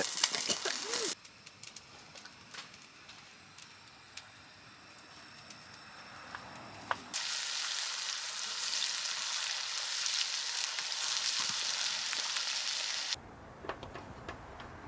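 Food sizzling in a hot pan, in two stretches of dense hiss that start and stop abruptly, with a quieter gap of faint scattered ticks between them.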